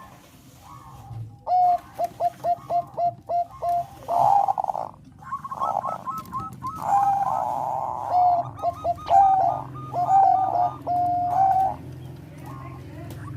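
Zebra dove (Thai "perkutut bangkok" strain) cooing. A run of short, quick staccato notes starts a second or two in, gives way to longer held notes, and stops shortly before the end.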